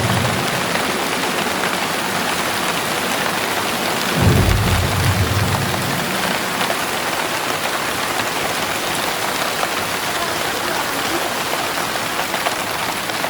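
Heavy rain falling steadily, with a low rumble of thunder about four seconds in that swells and dies away over a couple of seconds.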